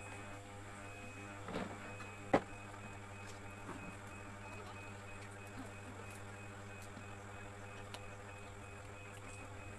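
Scattered clicks and knocks of tools and metal parts as a washing-machine motor is refitted, the sharpest knock about two and a half seconds in, over a steady low electrical hum.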